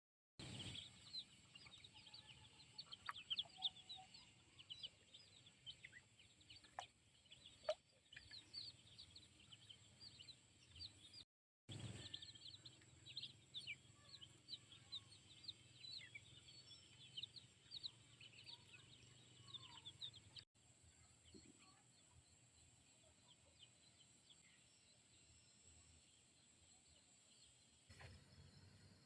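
Chickens calling: a dense stream of short high peeps and chirps, many falling slightly in pitch, which thins out to a few scattered calls for the last third.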